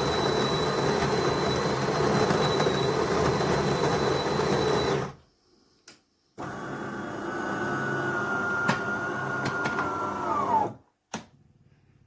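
De'Longhi Dinamica Plus bean-to-cup coffee machine running in two stretches of steady mechanical whirring with a thin high whine. The first stops suddenly about five seconds in; the second starts a moment later and winds down in pitch before stopping, followed by a click.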